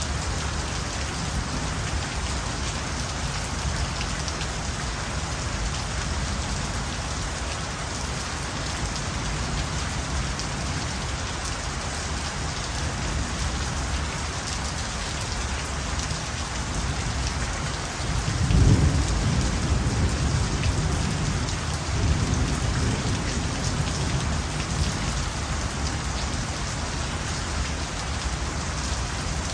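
Steady night rainfall, a continuous even hiss of falling rain. About two-thirds of the way through, a low rumble of thunder rises, then a second, weaker roll follows and fades.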